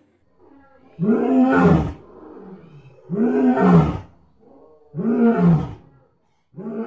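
Lion roaring: four loud calls about two seconds apart, each rising and then falling in pitch.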